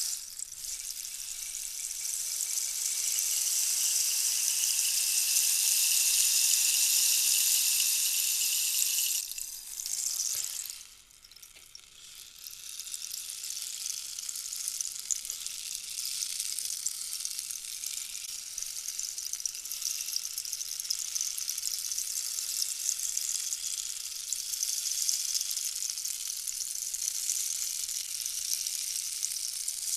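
A steady high-pitched hiss, grainy like trickling beads or sizzling. It falls away briefly about ten seconds in, then comes back.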